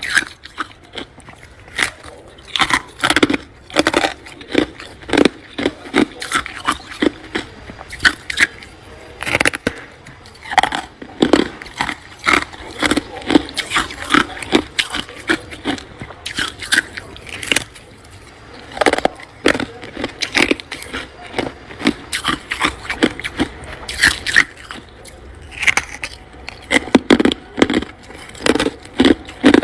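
Crunchy freezer frost being crunched close to the microphone: an irregular run of short, sharp crunches, a few a second.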